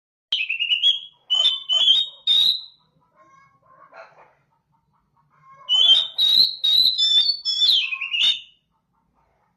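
Oriental magpie-robin (kacer) singing: two bouts of loud, high whistled phrases mixed with sharp clicking notes, the second beginning about halfway through.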